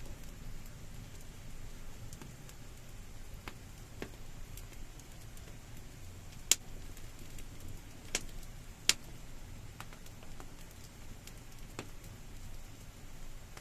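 Wood campfire crackling over a low steady rumble, with scattered sharp pops; the two loudest snap about six and a half and nine seconds in.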